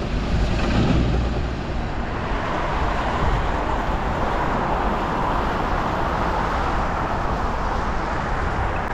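Tyres hissing steadily on a wet, rain-soaked road, with a low wind rumble on the microphone.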